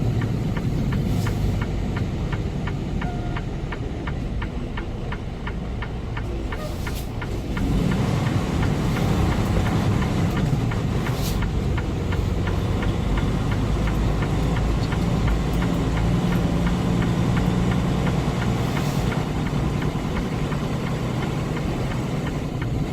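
Semi-truck diesel engine running while driving, heard from inside the cab as a steady low rumble that gets louder about a third of the way in.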